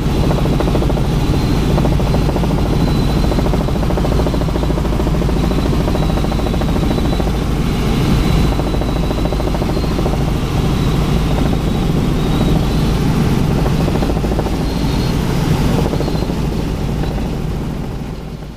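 Helicopter in flight: steady rotor and engine noise, fading out near the end.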